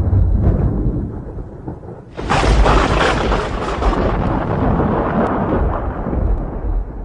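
Thunder: the tail of one rumble dies away, then a sharp thunderclap breaks about two seconds in and rolls on as a long rumble that slowly fades.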